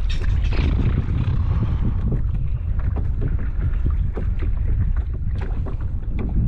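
Wind buffeting the microphone with a steady low rumble, over faint irregular splashes and knocks from paddling a kayak.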